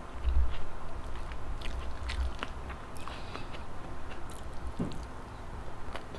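Close-miked chewing of soft rice, salted egg and tomato eaten by hand, with scattered wet mouth clicks and smacks.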